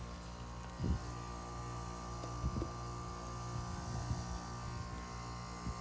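Outdoor unit of a 3-ton 2017 Lennox Merit 14HPX heat pump humming steadily in its defrost cycle, with a few brief low bumps.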